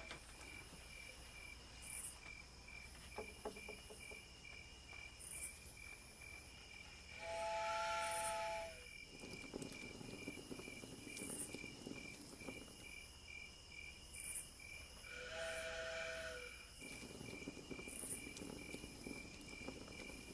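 Crickets chirping steadily in the background. A train whistle sounds a held, chord-like blast twice, about seven seconds in and again about fifteen seconds in, each blast lasting about a second and a half.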